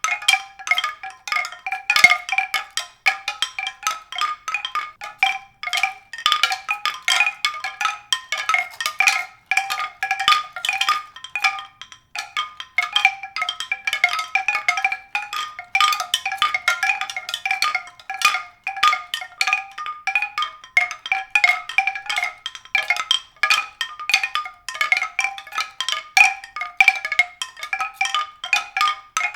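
A continuous, rapid tinkling of short, bright struck notes, several a second and overlapping, with no let-up.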